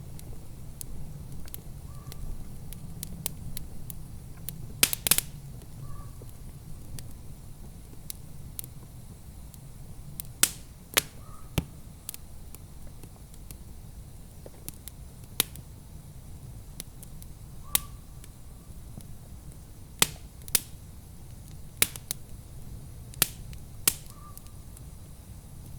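Wood fire crackling in a fireplace: irregular sharp pops and snaps, several of them loud, over a steady low rumble.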